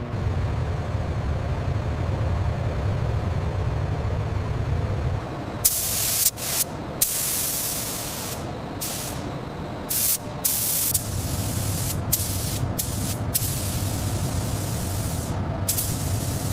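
Compressed-air spraying, like a paint spray gun. It starts as a steady low rumble, then from about halfway through comes as a string of separate hissing bursts.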